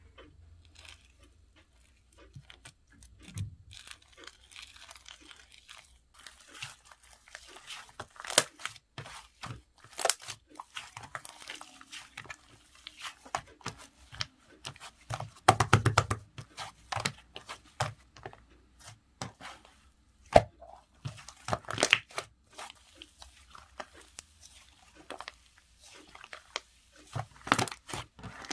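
Sherbet slime being squished, stretched and pressed by hand, giving irregular crunchy crackles and pops, with a dense run of them about halfway through.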